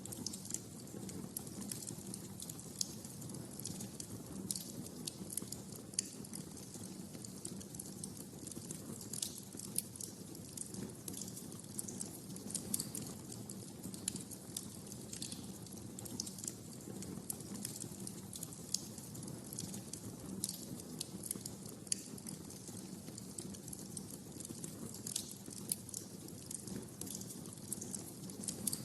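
Wood fire burning in a fireplace, crackling steadily: a low steady rumble of flames under frequent sharp, irregular pops and snaps.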